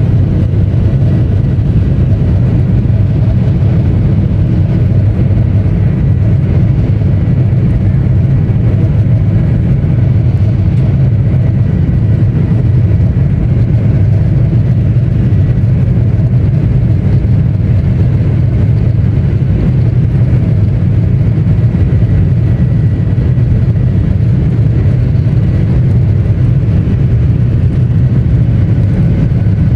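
Boeing 737-800's CFM56-7B jet engines running at takeoff power: a loud, steady, deep rumble with a faint high whine above it.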